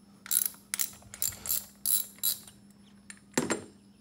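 A ratchet clicking in about six quick back-swings, turning a cup wrench to loosen an oil filter, followed by a single louder clunk near the end.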